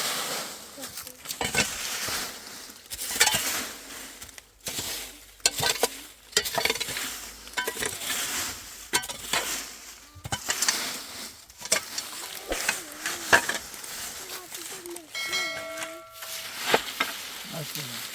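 Cooking sounds: irregular clinks, knocks and scrapes of a utensil against a pan or pot, over a sizzling hiss. A short ringing tone comes near the end.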